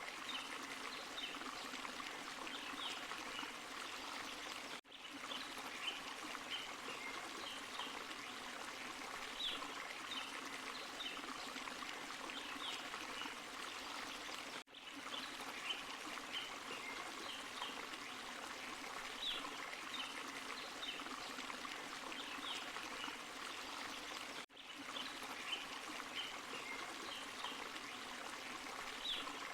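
Small forest waterfall and stream: steady rushing, splashing water. The sound dips out briefly three times, about ten seconds apart.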